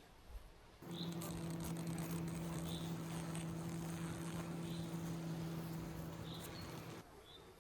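Honeybees buzzing: a steady, even drone that starts abruptly about a second in and cuts off just before the end, with light crackling over it.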